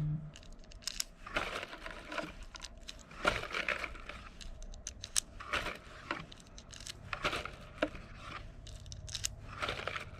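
Small metallic clicks and rattles from handling loose .22 LR cartridges and a Glock 44 magazine while loading it, coming in short clusters every second or two.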